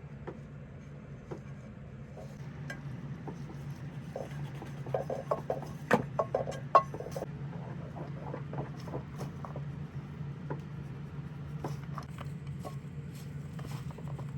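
Light clinks, taps and rubbing of dishes and utensils being handled, with a cluster of sharper clicks about five to seven seconds in, over a steady low hum that cuts off at the end.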